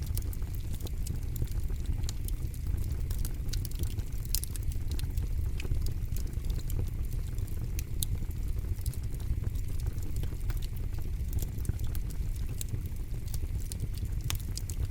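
Campfire burning steadily, a low rumble of flames under frequent sharp crackles and pops of burning wood, with a few louder pops scattered through.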